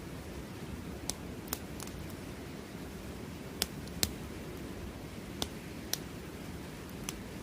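Wood fire crackling with about eight sharp, irregular pops, the loudest about four seconds in, over the steady rushing of a river.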